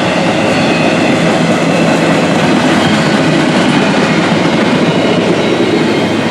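Freight cars of a passing Norfolk Southern train rolling by at close range, a steady loud rumble of steel wheels on the rails.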